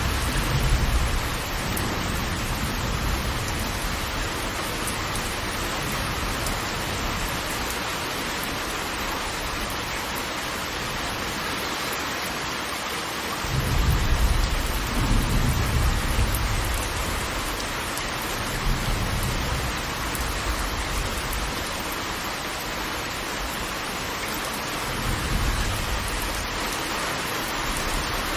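Steady rush of heavy falling water, with deep low rumbles swelling up and fading four times over it. The biggest rumble comes about halfway through.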